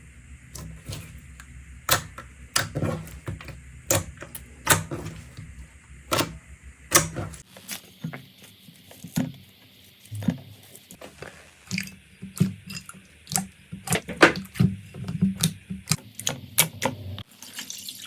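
Hands squeezing and poking slime, making an irregular run of sharp clicks and pops, a few every second.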